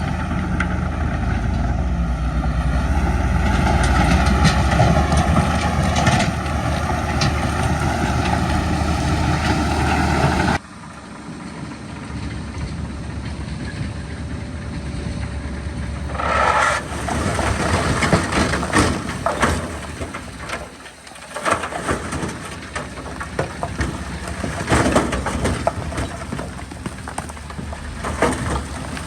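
Heavy earthmoving machinery: a big diesel engine runs loud and steady under load, then after an abrupt cut comes a lighter, irregular run of metal clanks and knocks with a short squeal about halfway through.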